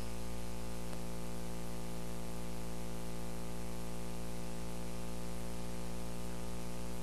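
Steady electrical mains hum with many evenly spaced overtones, under a constant hiss of line noise in the audio recording chain.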